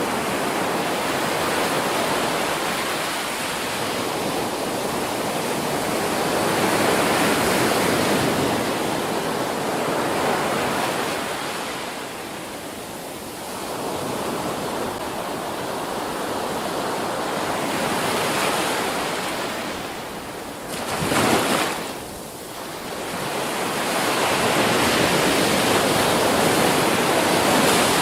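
Ocean surf breaking on a beach, a continuous wash that swells and eases as each wave comes in, with a short, sharper burst a little past three-quarters of the way through.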